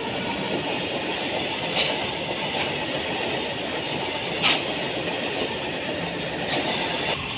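Freight train's open wagons rolling past close by: a steady rumble and rattle of steel wheels on the rails, with a few sharp clacks.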